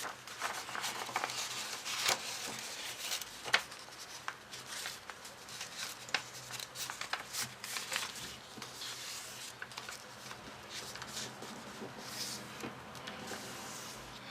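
Paper being handled and folded by hand: crisp rustling with many short, sharp crackles and scrapes as the folds are creased.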